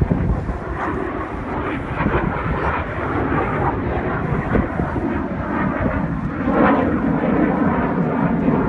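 Jet aircraft engines running, a steady loud noise that swells briefly about six and a half seconds in.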